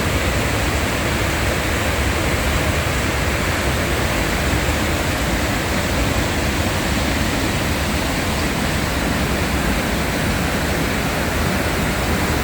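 Steady road and wind noise of a moving vehicle heard from inside the cab, an even rush over a deep rumble.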